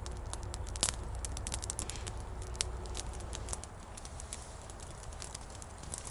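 Campfire of spruce wood crackling, with irregular sharp pops and snaps. A low rumble underneath drops away about three and a half seconds in.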